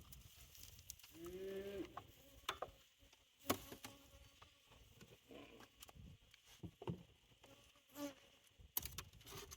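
Honeybee buzzing as it flies close past the microphone about a second in, then fainter buzzing, with a few sharp clicks.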